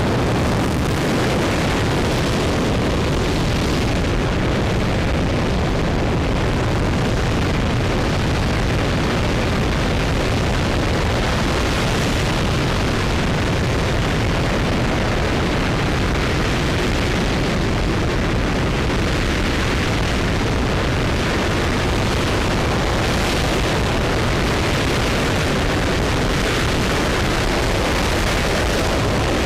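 RS-25 liquid-hydrogen rocket engine firing on a test stand: a steady, unbroken roar.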